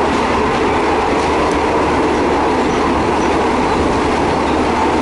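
Passenger train carriage running, heard from inside: a steady, loud rumble and rattle of the moving train.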